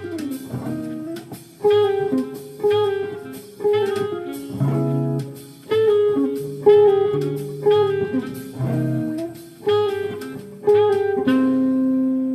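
Jazz played on guitar: plucked chords and short phrases about once a second, ending on a final chord about eleven seconds in that is left ringing.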